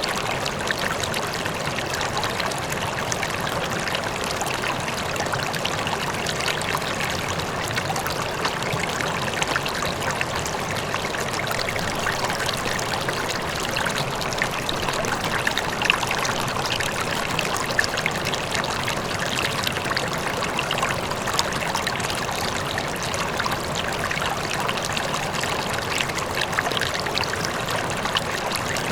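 River water flowing steadily, an even rushing and trickling dotted with small splashes, with a faint waterfall in the distance.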